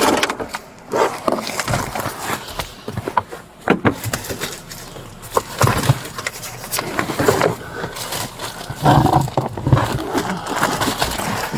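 Irregular clicks, knocks and rustles of objects being handled and moved inside a car during a search, with brief muffled voice sounds now and then.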